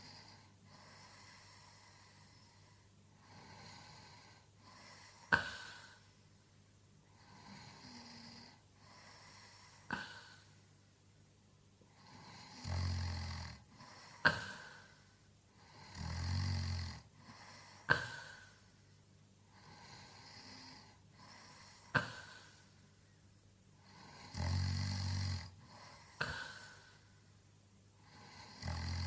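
A sleeping man snoring, with slow breaths about every four seconds. Several breaths carry a loud, low snore, and several end in a sharp click, the loudest sounds here.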